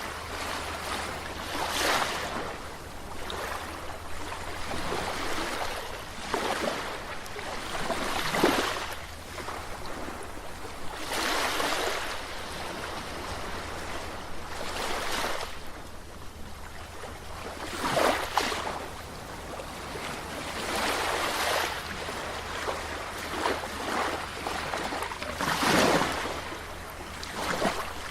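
Sea waves washing in, each swell rising and falling away every three to four seconds, with a steady low hum underneath.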